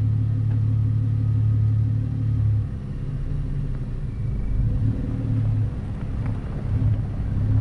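Engine and drivetrain of a 2012 Jeep Wrangler driving slowly on a dirt trail: a steady low drone that eases off about two and a half seconds in, then rises and falls.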